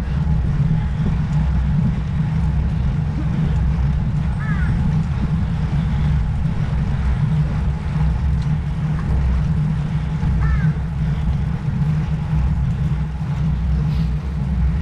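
Steady low wind rush buffeting the camera microphone while riding a road bike at speed. A few faint short high chirps come through now and then.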